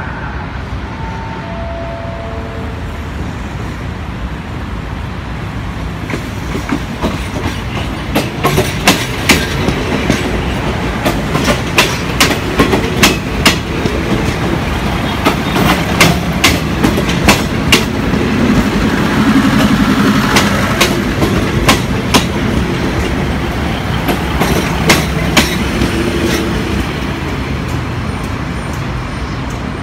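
SRT diesel railcar train passing close by. Its low rumble builds and then eases, and its wheels clack sharply over the rail joints, often in quick pairs, through the middle of the pass.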